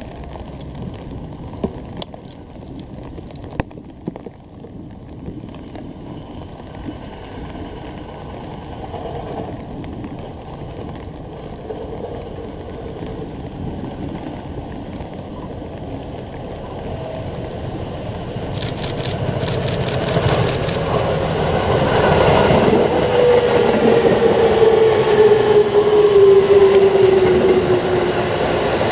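An electric commuter train approaching on the tracks and passing close by. Its running noise is faint at first and grows louder from about two-thirds of the way through, with wheels clattering on the rails and a motor whine that falls steadily in pitch.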